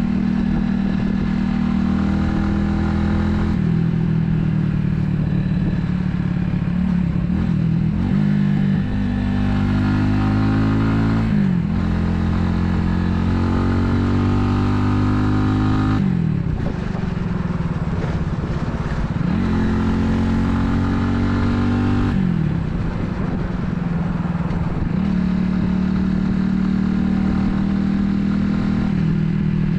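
Italika 250Z motorcycle's engine pulling through the gears on the road. Its pitch climbs, then drops sharply at each of several gear changes, with stretches of steady cruising in between. Wind and road noise run underneath.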